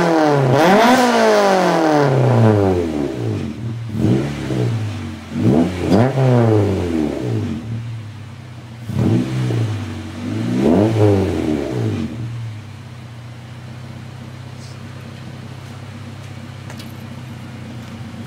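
An engine revving up and down about six times, the pitch rising and falling with each rev, then settling into a steady idle about twelve seconds in.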